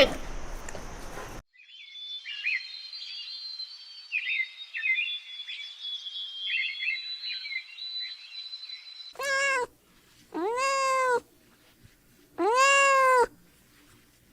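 Domestic cat meowing three times, each meow a loud arching call under a second long. Before the meows comes a stretch of quieter, high-pitched chirping.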